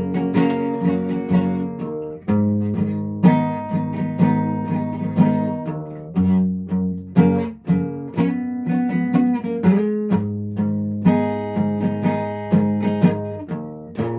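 Guitar chords strummed, about one strum a second, with the chord changing every few seconds.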